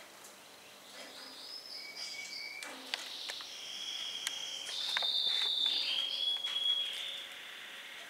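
High, thin bird chirps and held whistled notes, some sliding in pitch, growing louder past the middle, with a few sharp clicks among them.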